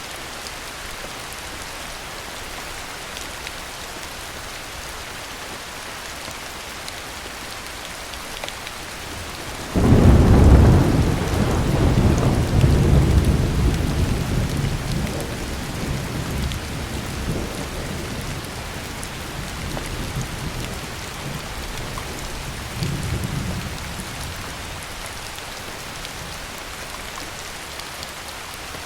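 Steady heavy rain. About ten seconds in, a sharp clap of thunder breaks into a deep rolling rumble that fades away over the next dozen seconds, with one more brief swell before it dies out.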